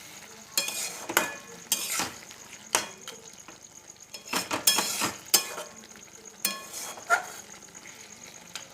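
Spatula stirring and scraping chicken in a kadai as it is fried down in spices, about a dozen irregular scrapes and clinks against the pan over a faint sizzle.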